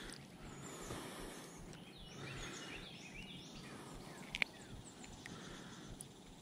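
Faint outdoor ambience with several short bird calls, and one sharp click about four and a half seconds in.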